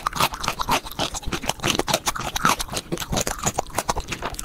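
Close-miked chewing and biting of a chocolate-coated ice cream bar: rapid, dense crunching and mouth noises, sped up.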